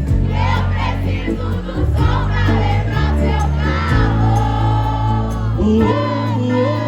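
Live sertanejo band music at concert volume, with bass stepping through chords and several voices singing the melody together.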